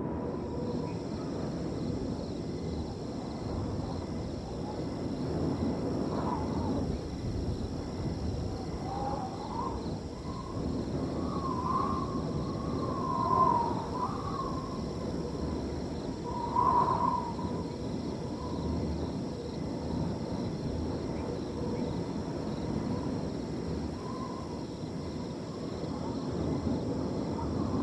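Wind blowing steadily over a field, with crickets trilling in a continuous high chirr. A few brief wavering calls rise out of it in the middle, loudest about thirteen and seventeen seconds in.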